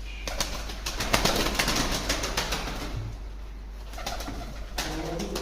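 Domestic tumbler pigeons in a small room. There is a few seconds of rapid rustling and clicking, then low cooing starts about four seconds in.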